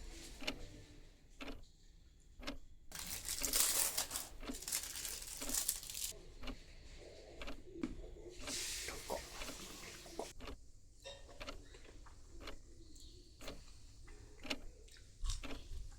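Scattered light clicks and knocks of things being handled, with a few seconds of rustling, crinkling noise about three seconds in and a shorter burst near nine seconds.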